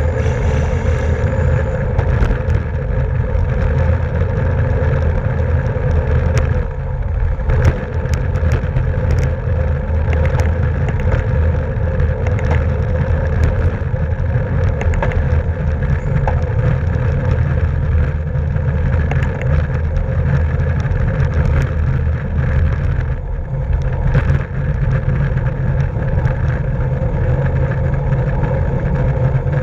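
Wind buffeting the microphone of a camera on a racing cyclist, a steady loud low rumble, with scattered light ticks and clicks from the moving bicycle.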